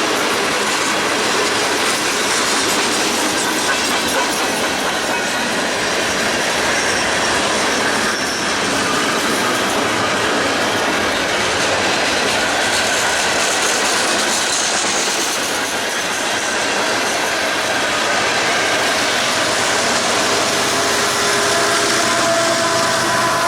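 Freight train cars rolling past on the rails: a loud, steady noise of steel wheels on track, with thin squealing tones from the wheels coming in near the end.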